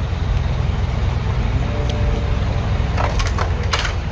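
A steady low rumble of vehicle and road noise. About three seconds in come a few sharp cracks or crunches.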